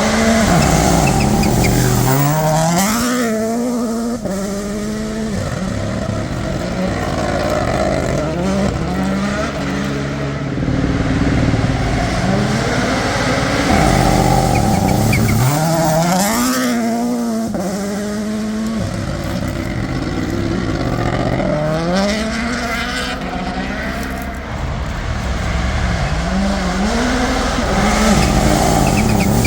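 Rally cars at full throttle on the stage, their engines climbing in pitch and dropping back at each gear change. The note swells and fades as cars pass several times.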